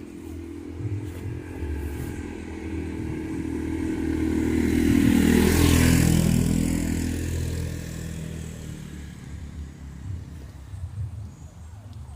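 A motor vehicle driving past on a wet road: its engine note grows louder, peaks about halfway through and drops in pitch as it goes by, with tyres hissing on the wet surface at the closest point, then fades away.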